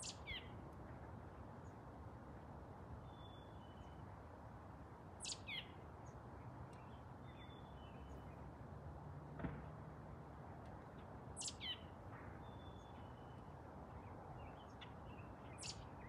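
Songbirds calling in trees: a sharp, high, down-slurred note about every five to six seconds, with short thin whistles between, over a faint steady low background rumble.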